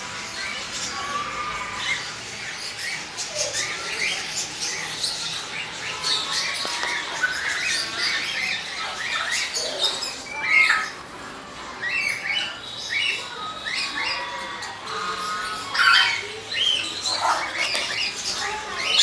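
A group of small pet parrots, kept as 'love birds', chattering and squawking with many short chirps, with louder squawks about ten seconds in and again near sixteen seconds.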